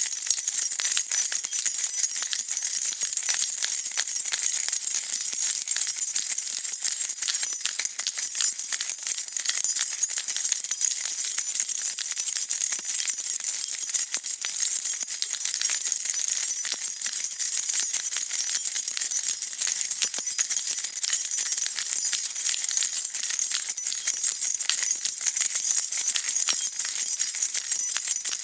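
A bunch of metal keys being shaken and jingled continuously, a dense steady stream of small bright clinks.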